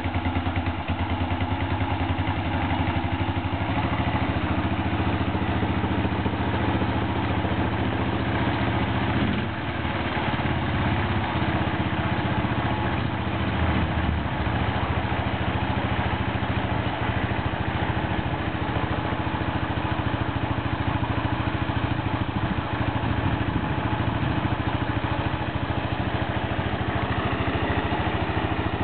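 BMW R26's 250cc single-cylinder four-stroke engine idling steadily, its speed wavering briefly about ten seconds in.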